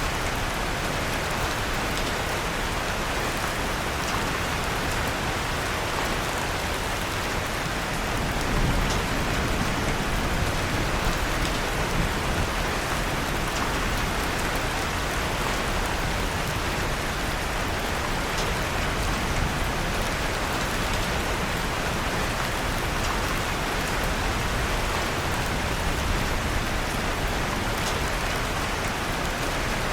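Steady rain falling, mixed with the faint scattered crackle of a wood fire in a fireplace; the rain swells slightly about eight seconds in.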